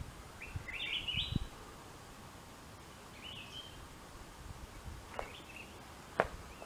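A small bird chirping in two short runs of rapid notes, near the start and again about three seconds in, over quiet open-air background. A couple of low thumps come early, and a single sharp click about six seconds in is the loudest sound.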